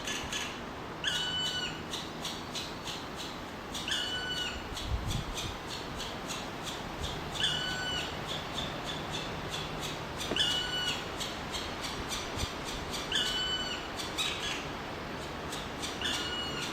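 Black woodpecker nestlings begging for food: a short, squeaky pitched call that drops at its end, repeated about every three seconds, over steady rapid clicking chatter.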